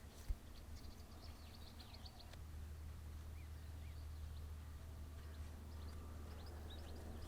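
Small birds chirping in short, high notes over a steady low hum, with one sharp knock about a third of a second in.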